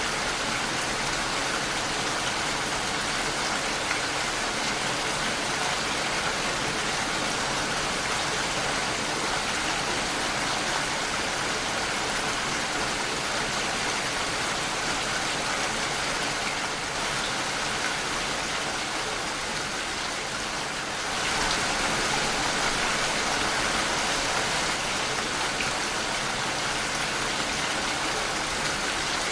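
Steady rain falling against a window, an even hiss of drops that eases slightly and then grows a little louder about two-thirds of the way in.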